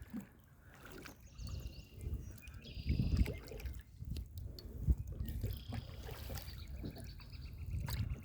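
Water lapping and sloshing against a kayak's hull, with a couple of louder knocks in the middle.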